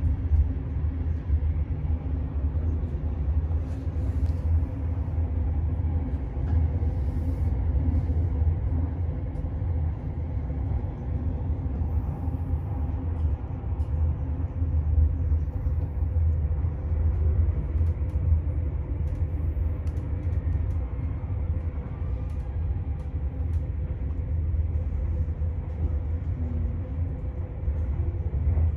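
Steady low rumble of a moving passenger train, heard from inside the carriage, with a faint steady hum above it.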